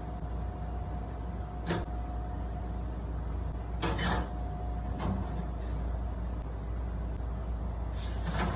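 Steady low machine hum in a restaurant kitchen, with a few sharp clatters of utensils or dishware being handled about two, four and five seconds in, and a hiss that starts near the end.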